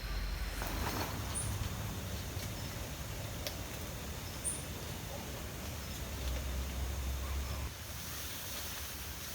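A short, high chirp from a small animal, twice, over a steady low rumble of outdoor background noise.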